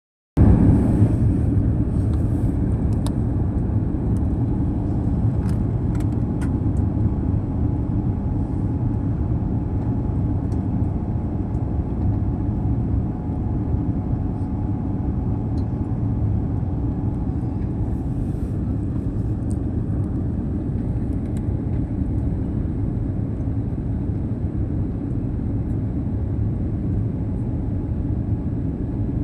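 Steady low rumble of a jet airliner's engines and rushing air, heard inside the passenger cabin, with a few faint ticks in the first seconds.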